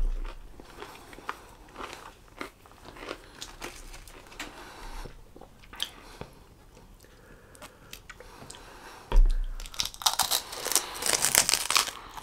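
A person chewing flatbread, with small wet mouth clicks, then a bump about nine seconds in followed by about two seconds of loud crunching and crackling close to the microphone.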